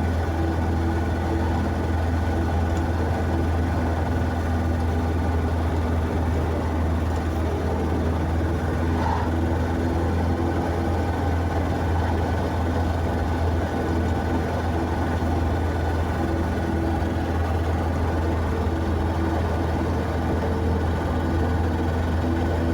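Steady low drone of a car on the move: engine and road noise, unchanging throughout.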